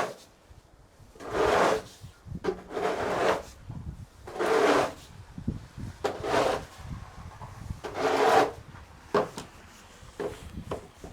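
Snow shovel scraping and pushing packed snow in repeated strokes, about one every one and a half to two seconds.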